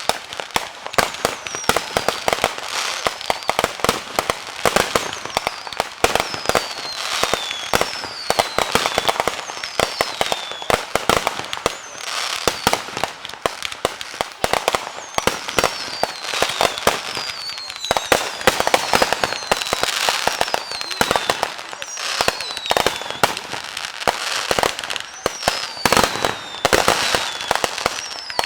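Fireworks going off in a dense, continuous barrage of crackling cracks and pops, with short falling whistles recurring every second or two.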